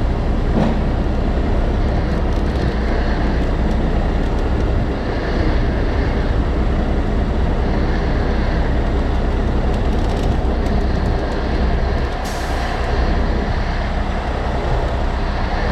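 Heavy diesel engine of a recovery wrecker running steadily under load while it winches the wrecked, loaded trailer, with a short hiss about twelve seconds in.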